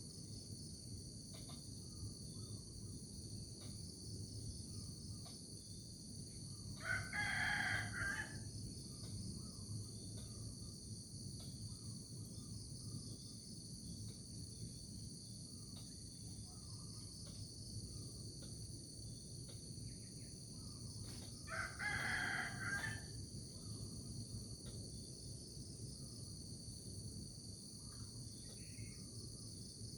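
A rooster crowing twice, about fifteen seconds apart, each crow lasting about a second and a half. Underneath runs a steady, high trilling of insects.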